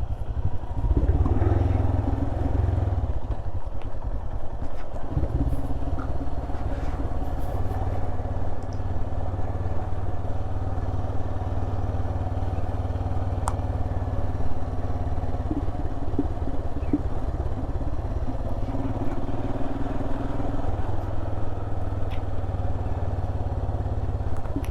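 Royal Enfield Himalayan's 411 cc single-cylinder engine running steadily as the motorcycle is ridden, heard from the rider's position, with a few faint clicks and rattles.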